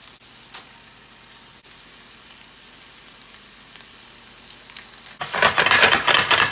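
Ground turkey and chorizo frying in a pan with a low, steady sizzle, then about five seconds in a loud burst of sizzling that lasts about a second and a half as liquid hits the hot pan and the pan is stirred.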